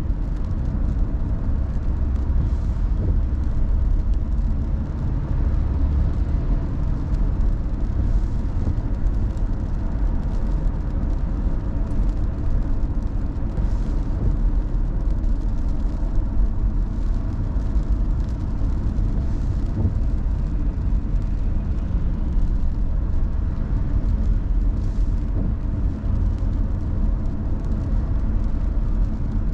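Steady low rumble of a car driving: engine and road noise, with no sudden events.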